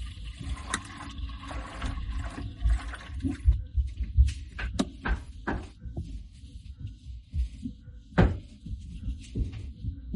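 Hands reconnecting the hoses of a canister aquarium filter: a steady hiss for the first few seconds, then a series of sharp clicks and knocks as the plastic fittings and valves are handled, over low handling rumble.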